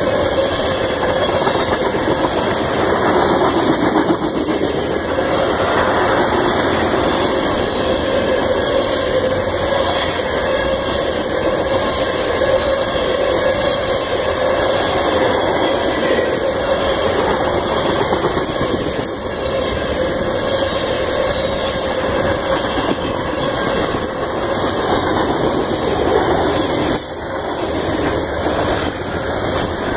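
Freight cars, tank cars then covered hoppers, rolling past close by: the steady rumble and clatter of steel wheels on the rail, with a steady tone running under it.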